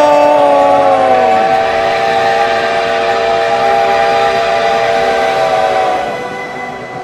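A long blast from a multi-chime steam whistle: a chord of several notes that bends in pitch as it begins, holds steady, and dies away about six seconds in.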